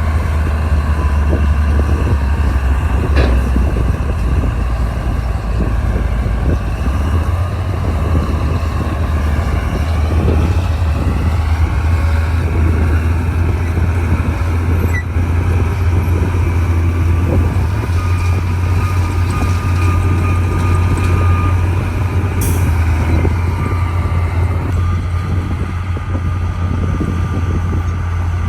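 Bulldozer's diesel engine running steadily, a deep continuous drone with higher whines that shift in pitch and a sharp clank now and then.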